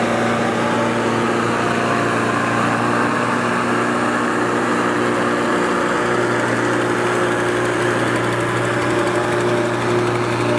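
Diesel tractor engine running steadily at a constant pitch, with no revving up or down.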